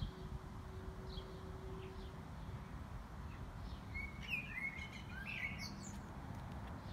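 Small birds chirping: a few faint high chirps in the first two seconds, then a quick run of chirps about four to five and a half seconds in, over a steady low rumble.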